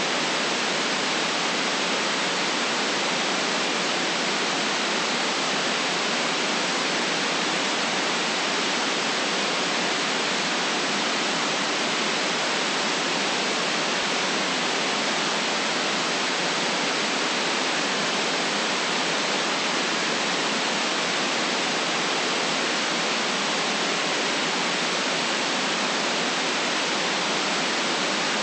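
Steady, unchanging white-noise hiss, even across the middle and high pitches with no deep rumble and no separate events.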